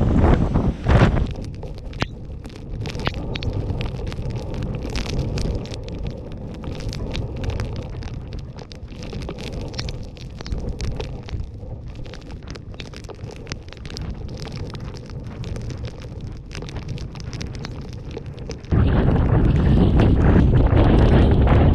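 Typhoon wind with a low rumble and a dense, irregular crackle of wind-driven rain striking close to the microphone. Near the end it switches suddenly to a loud, steady roar of wind buffeting the microphone.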